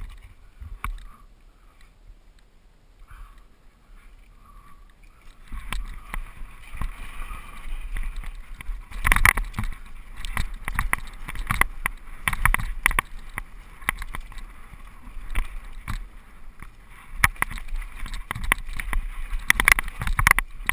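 Mountain bike riding down a rough dirt trail: the tyres roll over dirt and rocks, with many irregular rattles and knocks from the bike and wind rumbling on the microphone. Quieter for the first five seconds, then louder and busier.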